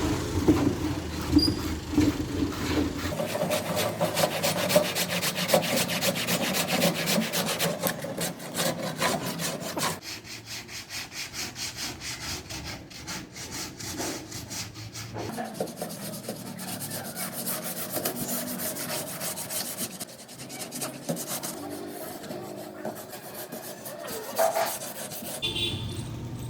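Rapid back-and-forth rubbing strokes on wood, loudest in the first ten seconds, easing off for a few seconds, then picking up again.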